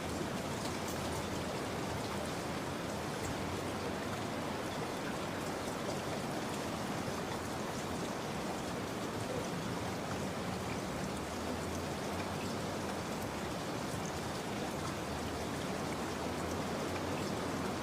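Steady rain falling, an even hiss with the fine patter of individual drops.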